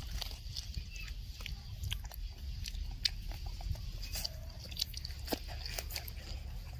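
Children biting and chewing fried chicken legs, close up: irregular wet mouth clicks and crunches from the fried skin, over a steady low rumble.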